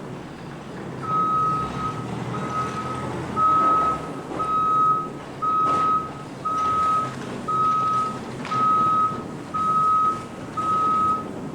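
A vehicle's backup alarm beeping steadily, a single high tone sounding about once a second, some ten beeps in all, starting about a second in. A low engine rumble runs underneath.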